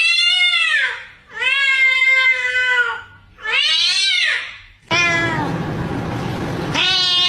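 A cat meowing: three long, drawn-out meows, the first and third rising then falling in pitch. A steady background noise comes in about five seconds in, with one shorter meow near the end.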